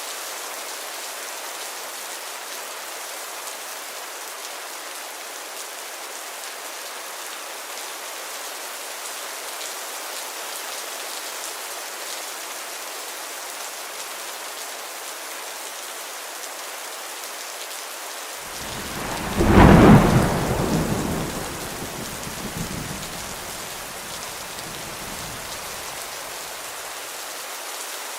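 Heavy rain falling steadily, with a clap of thunder about two-thirds of the way through that rumbles away over several seconds; the thunder is the loudest sound.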